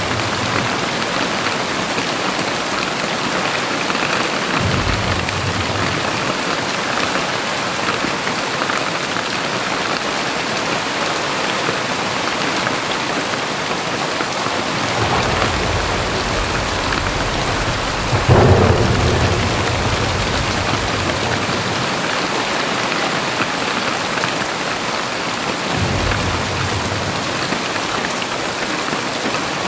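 Very heavy rain pouring steadily, with low rumbles rising and falling underneath and one sudden, louder rumble about two-thirds of the way through.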